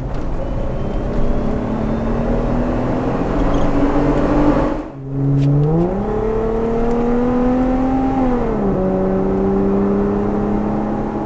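Jeep Wrangler engine running through a K&N aftermarket exhaust system. The engine pitch rises slowly, dips briefly about five seconds in, climbs again and holds, then drops back about two-thirds of the way through and settles steady.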